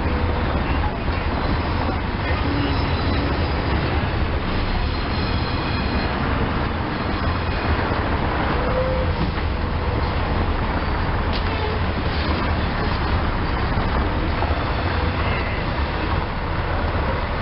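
Reading Blue Mountain & Northern coal hopper cars of a freight train rolling past: a steady rumble of steel wheels on the rails with a strong low drone.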